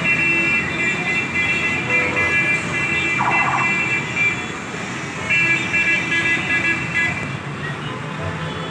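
Busy street traffic with car horns held for a couple of seconds, twice, and a short warbling car-alarm tone about three seconds in.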